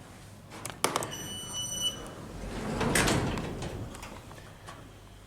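Elevator door sliding, in a swell that peaks about three seconds in and fades, after a sharp click and a short high electronic beep about a second in, in an Otis-modernised lift.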